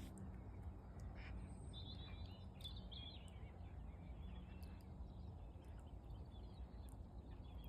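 Steady low outdoor rumble with a brief run of high, wavering bird chirps about two to three and a half seconds in.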